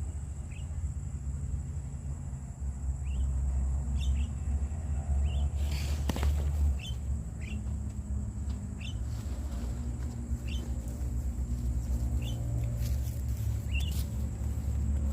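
A bird giving short, falling chirps at roughly one a second, over a steady high whine and a low rumble. About six seconds in there is a brief, louder rustling burst.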